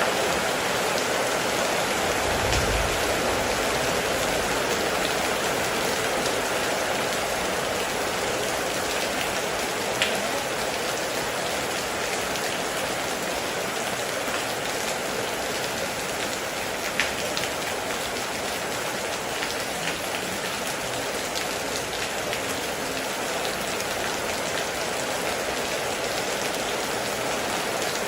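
Heavy rain falling steadily, with a brief low rumble about three seconds in and two sharp drop ticks, about ten and seventeen seconds in.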